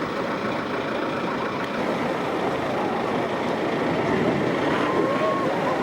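Boat engine running amid rushing surf and wind on the microphone, with several short rising-and-falling tones over it, more of them near the end.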